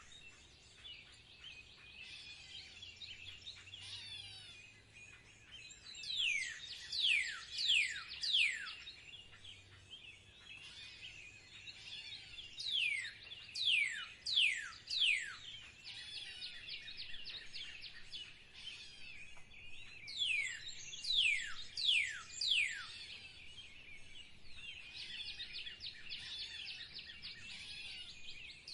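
Birds singing: one bird repeats a phrase of three or four loud, steeply falling whistles, once about every seven seconds, while softer high-pitched twittering and chattering from other birds fills the gaps.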